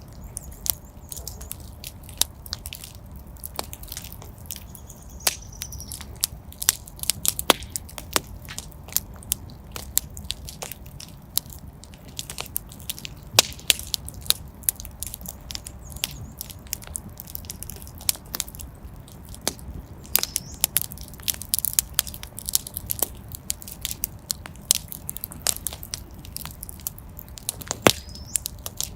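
Wood fire burning in a fireplace: irregular sharp crackles and pops over a low steady rumble of the flames, with a few brief faint hisses.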